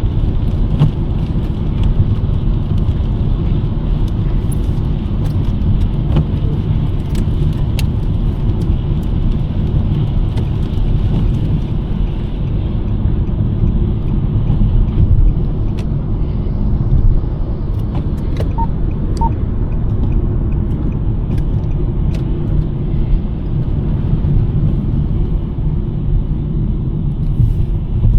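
2023 Nissan Sentra driving on a snowy road: a steady low road and tyre rumble, with scattered faint small ticks. Two short faint tones sound about two-thirds of the way through.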